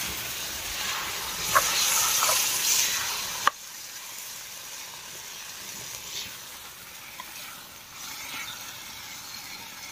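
Paneer and peas frying in oil and masala in a kadhai over a wood-fired chulha: a steady sizzle with a few sharp clicks. About three and a half seconds in it drops suddenly to a fainter sizzle.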